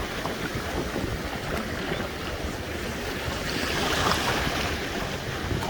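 Ocean surf washing on the shore, a steady rush that swells a little about four seconds in, with wind buffeting the microphone.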